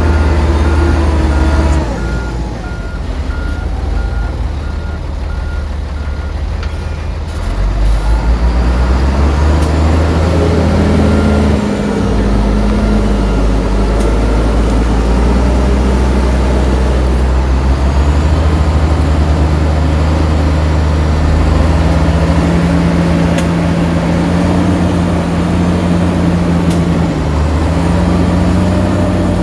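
Heavy diesel engines of earthmoving machines working, their pitch and load rising and falling as they rev. A reversing alarm beeps rapidly and evenly through the first seven seconds or so.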